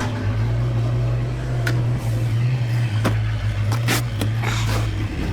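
An engine running steadily with a low, even hum, with a few sharp knocks or clanks over it.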